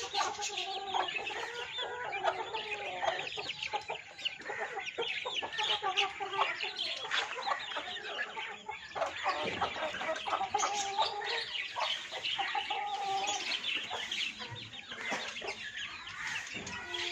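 A flock of chickens clucking, with many overlapping calls and a busy layer of higher, shorter cheeps throughout.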